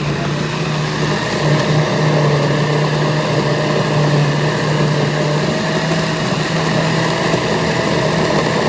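Electric blender running steadily with a constant motor hum, blending a thick chile salsa.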